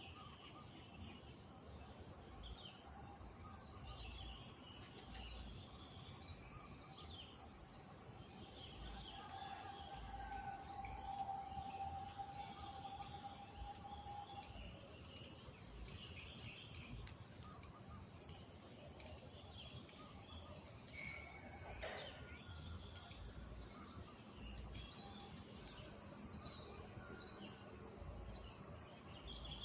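Village morning ambience: many small birds chirping and calling over a steady high insect drone. About a third of the way in, a long, level mid-pitched tone holds for several seconds.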